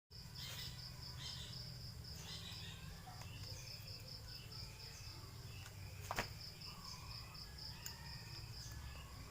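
Crickets chirping in a steady, fast pulse, with scattered short higher chirps and one sharp click about six seconds in.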